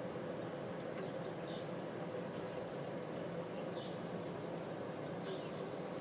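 A small bird chirping repeatedly, with short high chirps and a few quick downward-sliding notes, over a steady low background hum.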